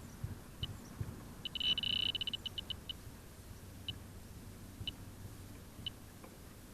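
Electronic refrigerant leak detector beeping about once a second, speeding up into a rapid, almost continuous run of beeps for about a second, its alarm on sensing refrigerant, then slowing back to single beeps.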